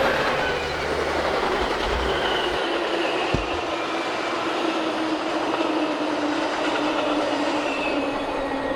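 A train rolling past on the main line, a loud, steady rolling noise of steel wheels on rail with a faint high wheel squeal drifting in pitch.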